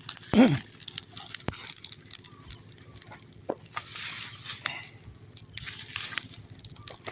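A trash fire of dry leaves and rubbish crackling with scattered sharp pops while it is stirred with a stick, with rustling hiss from the burning leaves.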